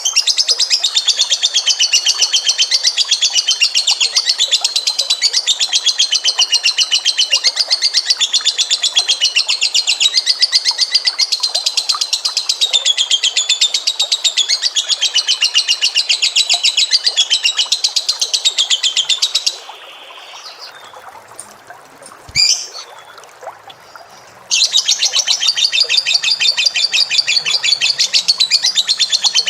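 A pet bird delivering a long, very fast trilling chatter, the kind used as a training recording for songbirds. The pitch wavers up and down through the run. It stops for about five seconds about two-thirds of the way in, with a single short knock during the pause, then starts again.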